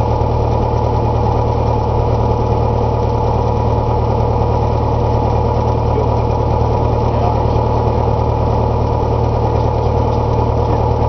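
Single-engine light aircraft's four-cylinder Lycoming engine and propeller running steadily at low power on the ground after landing, with no change in pitch.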